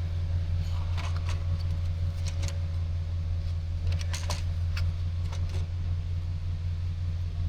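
Scattered light clicks and taps of small metal parts and tools being handled, over a steady low hum.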